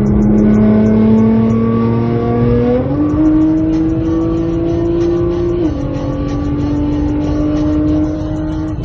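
Sports car engine running hard at highway speed, its pitch climbing steadily, jumping about three seconds in and easing back down a little later in the clip.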